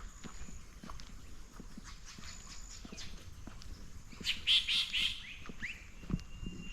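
Wild birds calling and chirping, with short chirps and thin whistles throughout and a burst of louder, harsher calls about four seconds in.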